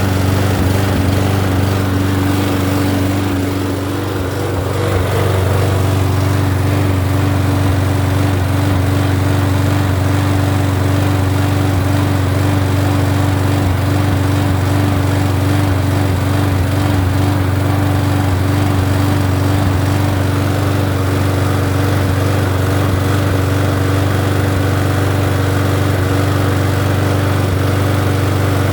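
Toro 20340 walk-behind lawn mower's 163cc engine running steadily, with a brief dip in level about four seconds in. It is sounding a lot better now that the mower has been revived.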